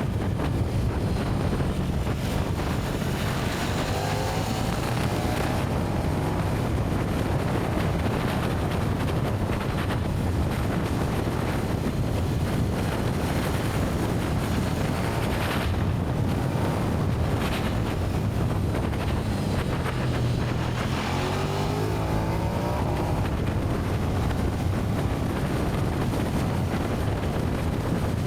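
KTM 1290 Super Duke R's V-twin running through its stock exhaust while being ridden, with wind rushing over the microphone. The engine note climbs about four seconds in, then dips and climbs again around twenty seconds in as the revs change.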